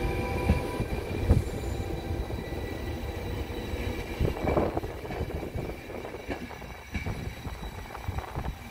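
Intercity passenger coaches rolling past, the wheels rumbling with a few heavy clunks, one about a second in and another about four and a half seconds in, and a high wheel squeal that fades out near the start.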